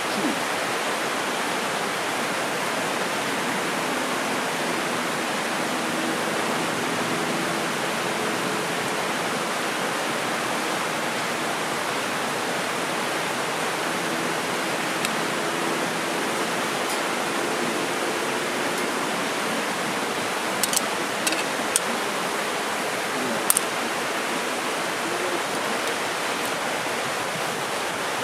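Steady rush of a mountain river flowing, with a few short sharp clicks in the last third.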